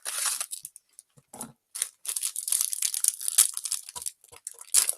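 Pepero snack packaging being torn open and crinkled: bursts of tearing and rustling at the start, through the middle, and again near the end.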